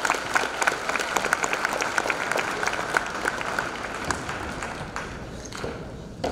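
Audience applauding with dense clapping that thins out toward the end.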